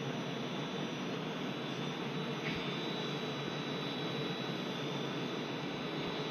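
Steady hum and hiss of a stationary Trenitalia Intercity train, with a faint steady high whine over it.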